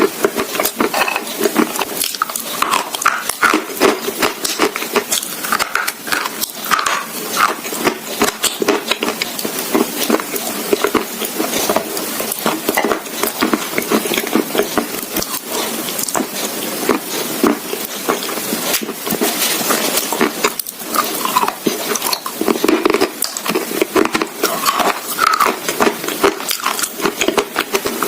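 Close-miked crunching and chewing of dry edible clay: a continuous run of irregular crackling bites and crumbling.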